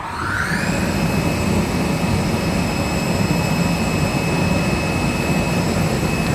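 Snowboard topsheet CNC cutting machine starting a test cut: a motor spins up with a rising whine that levels off within the first second, then runs steadily with a high whine over a low hum.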